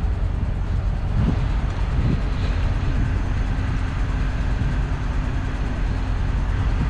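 Diesel engine idling with a steady low rumble; a faint steady hum comes in about two seconds in.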